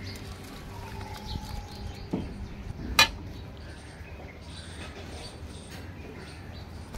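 Outdoor background of birds chirping, with a faint falling whistle about a second in. A small knock just after two seconds and a single sharp click about three seconds in.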